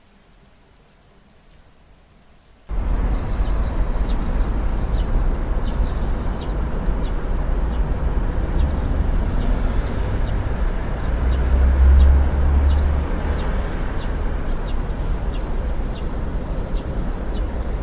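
Rain with a long, low rumble of thunder that starts abruptly about three seconds in, swells near the middle and eases toward the end. Faint high ticks sound over it.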